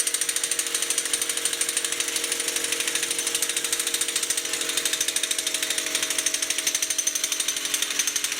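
Pneumatic air tool hammering rapidly and steadily on a seized hub nut without breaking it loose: there is not enough air pressure behind it.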